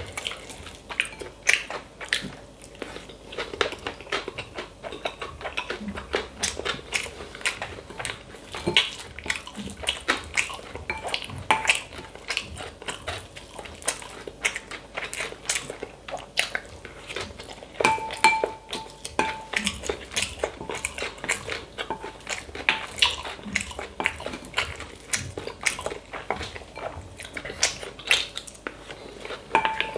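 Spoon clinking and scraping against a bowl with many quick clicks and a few short ringing pings, mixed with close-up chewing and biting.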